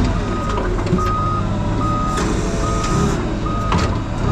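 Forklift reversing alarm beeping at an even pace, about one beep a second, over the forklift's engine running as it backs up.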